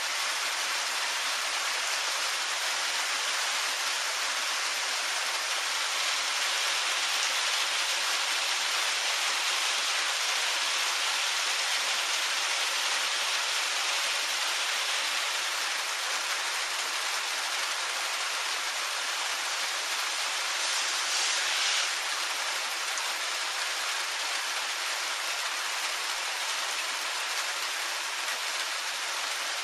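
Soft, steady rain falling on wet pavement and grass, an even hiss.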